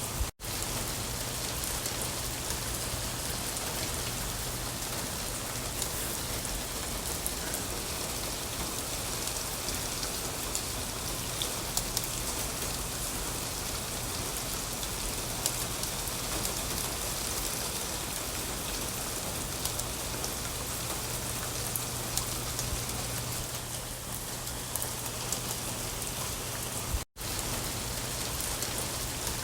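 Steady rain falling, with scattered individual drop ticks through it. The sound cuts out for an instant twice, once near the start and once near the end.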